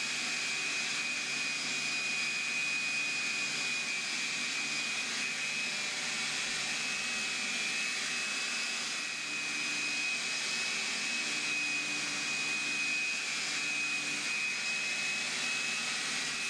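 Electric power sander running steadily on the wooden chair back, with a constant high whine over a steady hiss.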